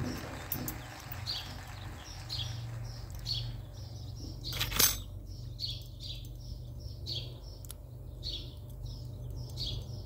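A small bird chirping over and over in short, falling chirps, a little under two a second, with one sharp click about halfway through.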